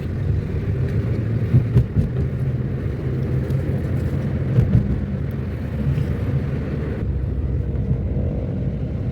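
A car driving: a steady low engine and road rumble, with a few brief thumps about a second and a half in and again near the middle.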